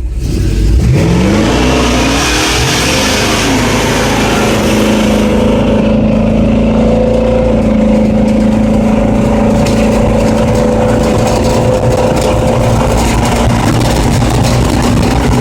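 Pickup truck engine accelerating hard from the start, its pitch climbing twice in the first few seconds, then running steadily at high revs.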